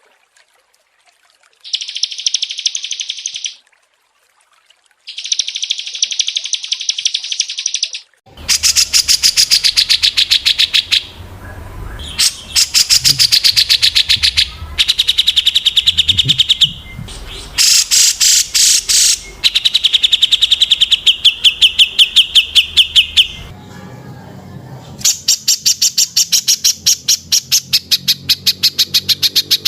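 Small songbirds calling: three separate high, dense trills of about two seconds each with silence between them, then a different recording with low background noise and long runs of rapid, sharply repeated high chips and trills, some falling in pitch.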